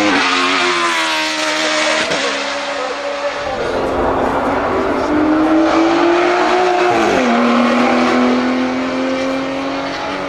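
Racing car engine running hard. Its pitch falls over the first two seconds, then climbs again, drops sharply about seven seconds in and holds steady.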